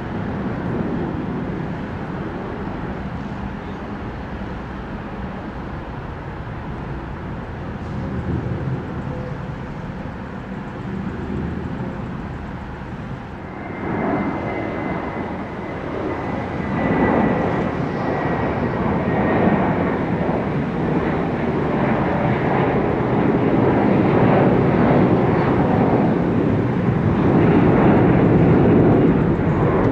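Jet airliner departing, its engines at takeoff thrust. A high fan whine comes in about halfway through, and the roar grows louder toward the end.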